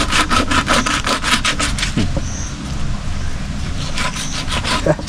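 Quick, rhythmic scraping strokes that stop about two seconds in and start again near the end.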